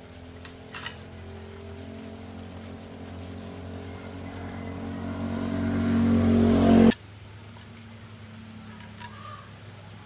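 Electric welding machine's transformer humming, growing steadily louder and rougher, then cutting off suddenly about seven seconds in.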